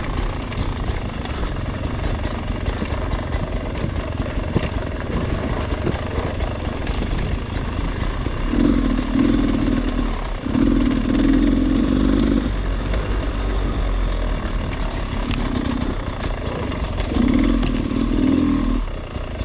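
Dirt bike engine running under load on rough trail, with the throttle opened in several bursts in the second half, each lasting one to two seconds. Light knocks and clatter from the rough ground come through along with it.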